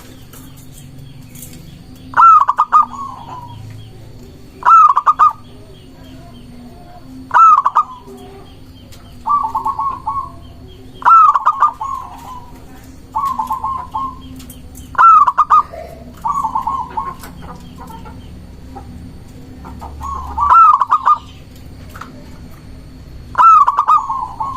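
Zebra dove (perkutut) cooing: a series of about ten short trilled calls, each under a second, repeated roughly every two seconds.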